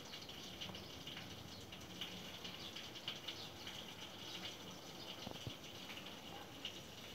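Faint irregular crackling and trickling over a steady hiss: cleaning liquid and water working through a split air conditioner's coil as it is cleaned.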